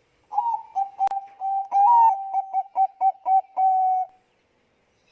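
Zebra dove (perkutut bangkok) singing: a quick run of about a dozen short coos on one low pitch, lasting about four seconds. A sharp click sounds about a second in.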